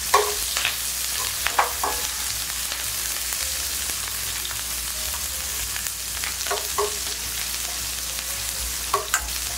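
Sliced onion and red bell pepper sizzling in hot oil in a wok over high heat, a steady hiss, while a metal spatula scrapes and knocks against the pan every so often as they are stir-fried.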